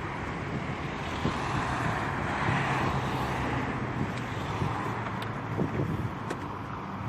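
Steady road and wind noise of a moving car, with a faint low engine hum underneath.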